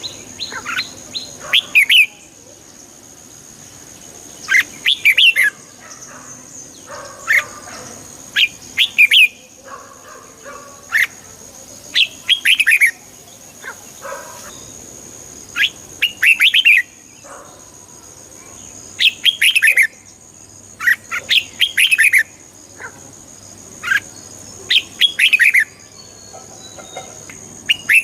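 Red-whiskered bulbul singing short, bright, warbling phrases, one every two to three seconds, over a steady high-pitched whine.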